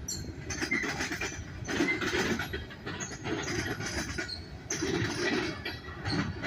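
Freight train of loaded steel-coil cars rolling past, the wheels clattering over the rail joints in a rhythm that swells about every second and a half.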